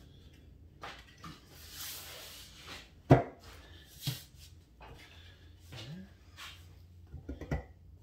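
Scattered knocks and clunks from parts and tools being handled during engine work, with one sharp knock about three seconds in, another a second later, and a quick run of small knocks near the end.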